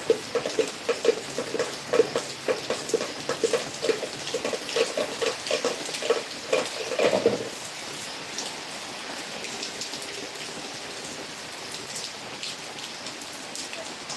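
Heavy rain falling and pattering on surfaces. For the first half, a quick run of short knocks, about two or three a second, sounds over the rain and stops about halfway, leaving steady rain.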